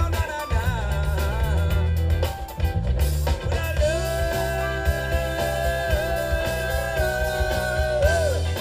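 Live band playing an up-tempo rock number with a driving bass line and drums. About four seconds in, a single high note is held for about four seconds and bends down near the end.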